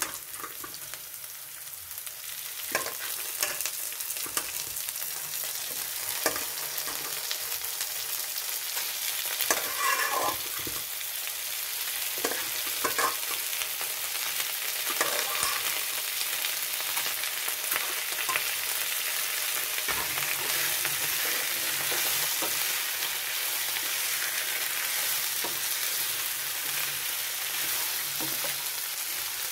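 Raw chicken pieces and onions sizzling in hot oil in a nonstick pan, stirred and turned with a spatula that scrapes and knocks against the pan now and then, mostly in the first half. The sizzle builds a little as it goes on.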